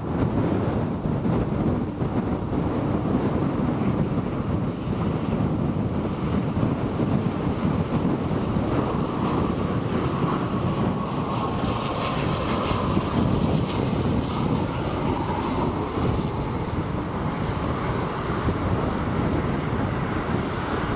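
Strong gusting wind buffeting the microphone, with a jet aircraft's engine whine passing from about nine seconds in, its high pitch falling slowly as it goes by.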